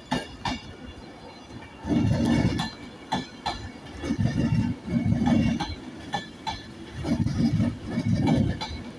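Avanti West Coast Class 390 Pendolino electric train pulling out, its wheels rumbling and clanking in uneven surges every second or two, with scattered clinks.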